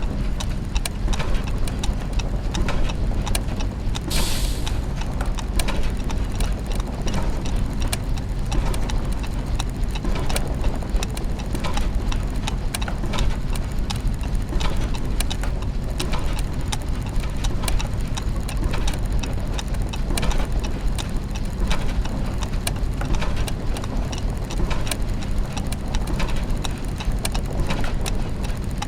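Dense clockwork soundscape: many gears and ratchets ticking and clicking over a steady low mechanical hum. A short hiss sounds about four seconds in.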